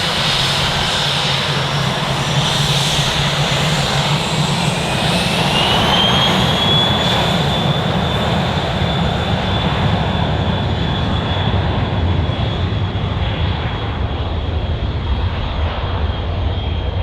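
Turbine aircraft engines running loudly, with a whine that rises in pitch about a third of the way in and then holds steady. The sharpest high end fades over the last few seconds as the aircraft draws away.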